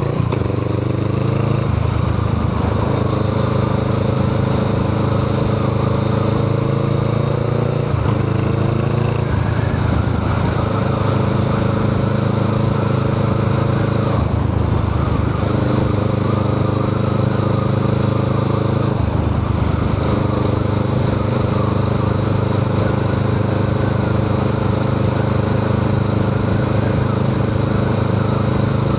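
Honda Rebel 500's parallel-twin engine running through a Musarri aftermarket exhaust muffler, holding a steady note for several seconds at a time with brief breaks and shifts in pitch several times.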